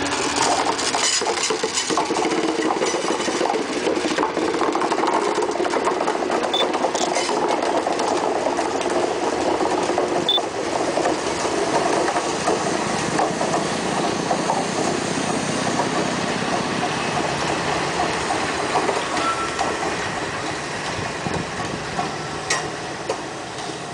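Metre-gauge passenger train rolling past close by, a diesel locomotive leading and coaches following, with a steady rumble and the wheels clicking and rattling on the track, most densely in the first couple of seconds.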